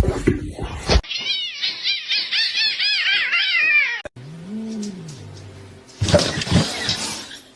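Cats calling across a few quick cuts: first a rapid run of short, high-pitched calls, about four a second, then one lower drawn-out call, then a noisy scuffle-like stretch near the end.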